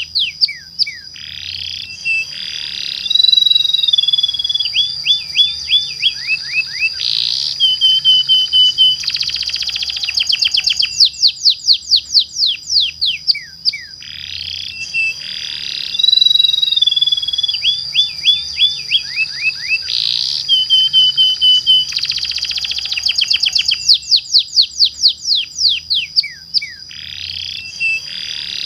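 Domestic canary singing long, varied song: quick falling whistled notes and fast trilled rolls over a steady high tone. The same run of phrases starts over about halfway through, as in a looped lure recording meant to set other canaries singing.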